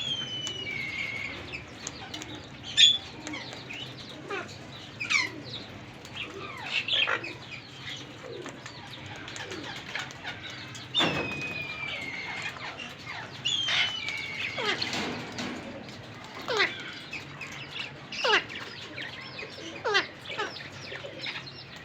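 Parrots calling: a series of short, sharp shrieks and falling whistles, one every second or two.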